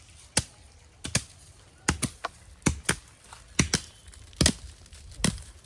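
A series of sharp, irregular knocks or clacks, some in quick pairs, about two a second.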